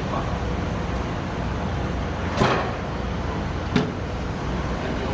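Steady low rumble of a train standing at a station platform, broken by two sharp knocks about a second and a half apart, near the middle.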